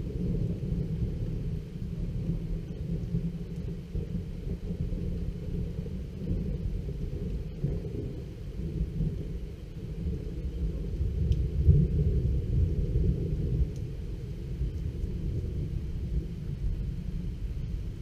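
Long, deep rolling rumble of thunder from a thunderstorm, rising and falling and swelling loudest about twelve seconds in.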